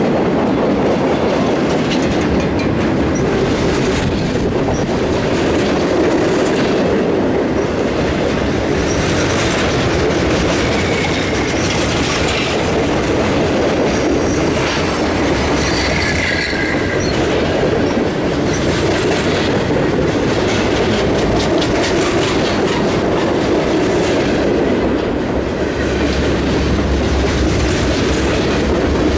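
Freight train cars rolling past at close range: a steady rumble of steel wheels on the rails, with repeated clicks and clatter as the wheels cross rail joints.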